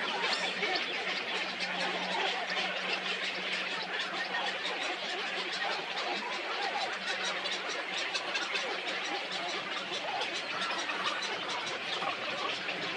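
Dense chorus of many birds chattering and calling at once, a steady mass of overlapping short calls.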